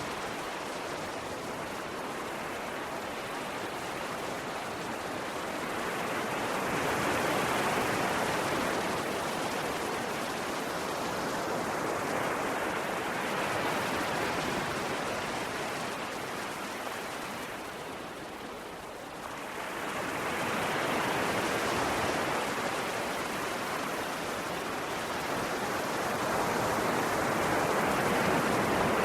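Ocean waves washing onto a shore, a steady hiss of surf that swells and recedes roughly every six to seven seconds, with a brief lull about two-thirds of the way through.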